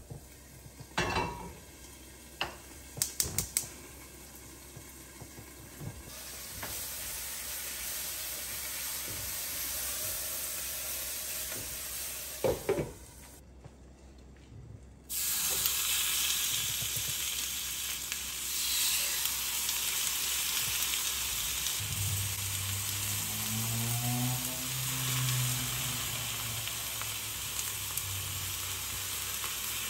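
Food frying in oil in skillets on a gas stove, sizzling. There are a few sharp knocks of pans and utensils on the grate in the first seconds. After a short break, the sizzle comes back steadier and louder.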